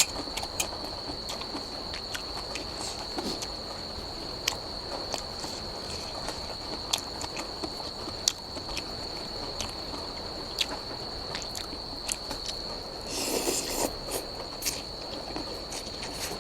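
Someone eating noodles: chewing, with many short sharp clicks of utensils and a denser burst of eating noise about thirteen seconds in. A steady high insect drone runs underneath.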